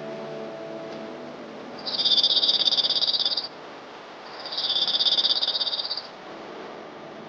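Dark-eyed junco song: two rapid, even trills on one high pitch, each about a second and a half long, the second beginning about a second after the first ends.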